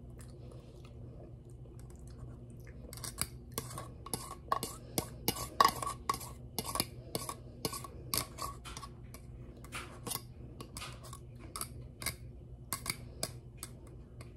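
A metal utensil scraping and tapping inside an opened tin can, scooping SpaghettiOs out into a bowl. It starts faint, and from about three seconds in becomes a run of quick clinks and scrapes, several a second, with a slight metallic ring.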